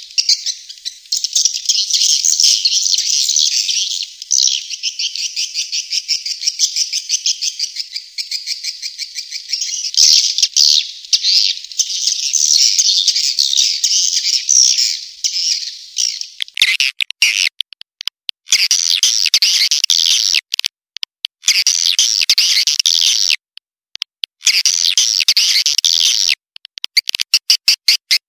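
Swiftlet lure call: dense, rapid, high-pitched twittering. From about 16 seconds in it breaks into blocks of chirping separated by sudden silent gaps, and it ends in a run of quick, short chirps.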